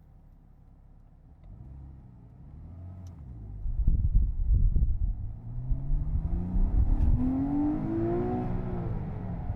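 Porsche Boxster S (987.2) flat-six engine pulling away under acceleration, heard from the open-top cabin: quiet at first, then a strong low rumble about four seconds in, the engine note climbing steadily and dropping back near the end.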